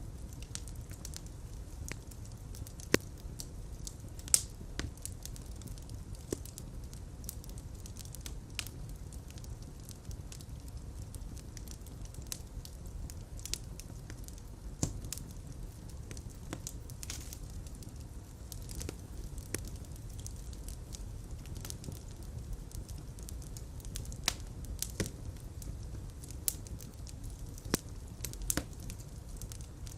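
Fireplace fire crackling: a steady low rumble of flame, broken by scattered sharp pops and snaps at uneven intervals. Two louder pops come a few seconds in.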